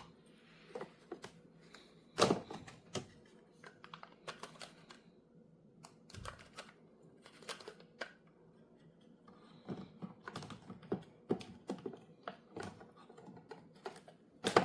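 Irregular clicks, taps and knocks of the plastic parts of a Hamilton Beach 2-Way drip and single-serve coffee maker being handled, with a louder knock about two seconds in.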